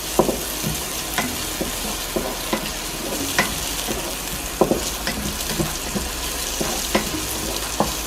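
Chicken and onion frying in hot oil in a pan, a steady sizzle, with a stirring utensil clicking and knocking against the pan at irregular moments.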